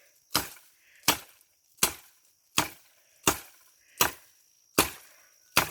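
Wood being chopped with a hand blade: eight sharp, evenly spaced blows into a branch, about three-quarters of a second apart.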